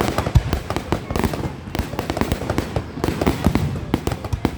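Fireworks going off in rapid succession, a dense string of overlapping bangs and crackles with no pause.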